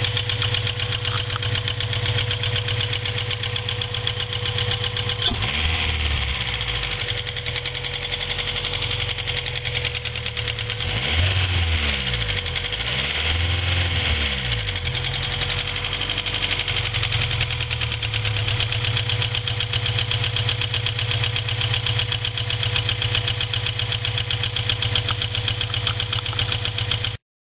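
Honda B20Z 2.0-litre four-cylinder engine idling with a fast, even ticking, revved briefly about five seconds in and twice more between about eleven and fifteen seconds. The cause of the tick is unknown to the owner.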